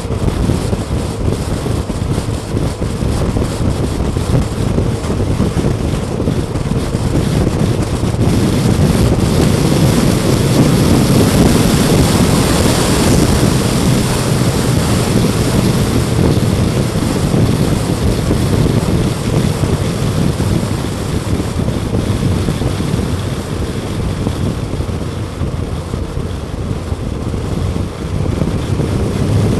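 Motorcycle engine running at road speed under heavy wind rush on the microphone. It gets louder through the middle stretch and eases off near the end.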